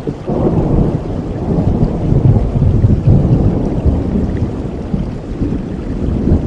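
Rolling thunder rumbling over steady rain, swelling about half a second in and easing off toward the end.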